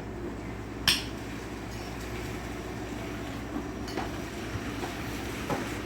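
Steady low hum inside a car's cabin moving in traffic, with a sharp click about a second in and a few fainter ticks later.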